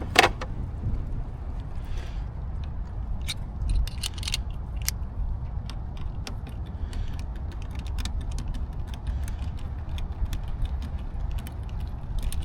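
Scattered sharp metallic clicks and clinks of hand tools and parts being handled, at irregular intervals over a steady low rumble.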